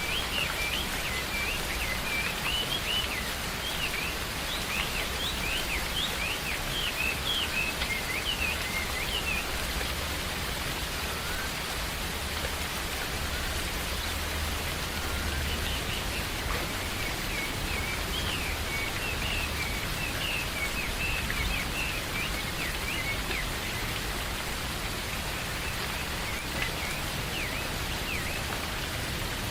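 Steady rain falling in a forest, with a low rumble underneath. Birds chirp in quick high strokes over the rain, in two busy spells: through the first nine seconds or so, and again from about fifteen to twenty-two seconds in.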